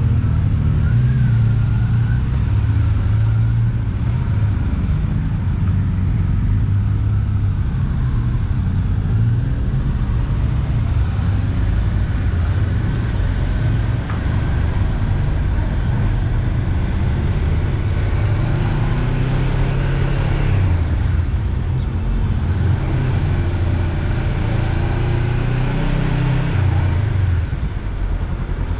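Honda CB500X's parallel-twin engine running on the road, its note shifting up and down with the throttle. Near the end it drops and settles into a lower, steadier beat.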